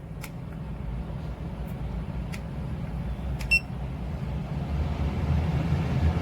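12V RV roof vent fan running, its motor and airflow noise rising as it is stepped up through its four speeds. There are a few light clicks, and one short electronic beep about three and a half seconds in as a speed button is pressed.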